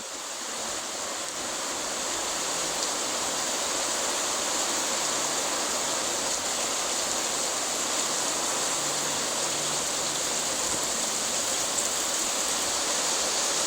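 Heavy rain pouring down in a steady hiss, growing a little louder over the first couple of seconds and then holding even.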